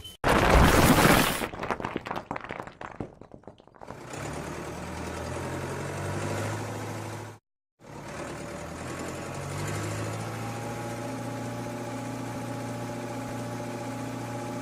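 A loud crash with clatter in the first second or so, rattling away over the next few seconds, then a cartoon vehicle engine running steadily; the engine sound cuts out briefly about halfway through and starts again.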